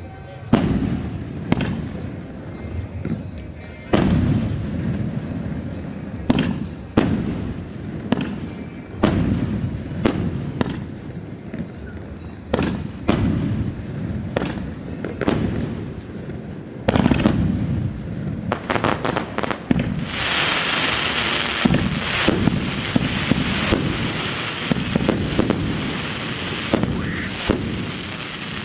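Fireworks display: aerial shells bursting with sharp bangs, each trailing a rumbling echo, at irregular intervals of about a second or two. About two-thirds in, a dense, continuous crackle joins the bangs and runs on almost to the end.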